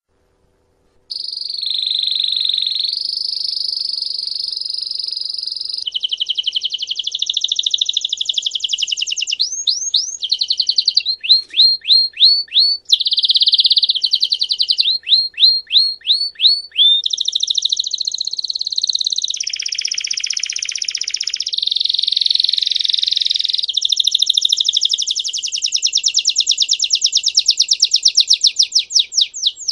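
Canary singing a long, continuous song of trills, starting about a second in. It moves from steady rolling trills to runs of quick rising notes, about four to five a second, and ends in a fast trill.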